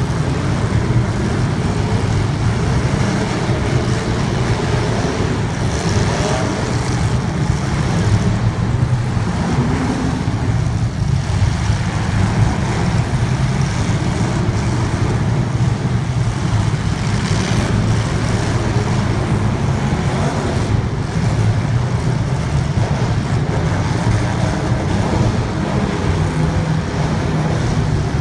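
Racing engines of a field of race vehicles running continuously at speed, a dense overlapping drone that rises and falls in pitch as the cars pass.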